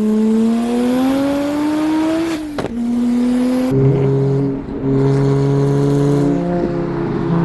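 Single-turbo BMW N54 straight-six pulling under load, its note climbing steadily. About two and a half seconds in a sharp crack and a drop in pitch mark a gear change. After a short further pull it settles into a steadier, lower drone.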